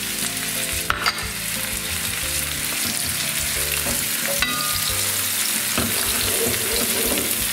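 Chopped red pepper, onion and garlic sizzling in hot oil in a frying pan while a wooden spatula stirs them, with a sharp knock about a second in and another after about four and a half seconds.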